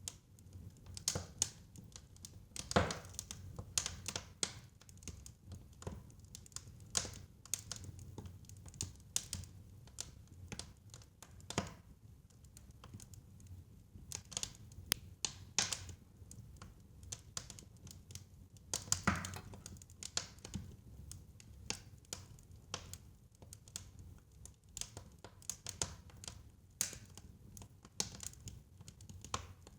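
Wood fire crackling in a fireplace: irregular sharp pops and snaps, a few louder ones, over a low steady rumble of the flames.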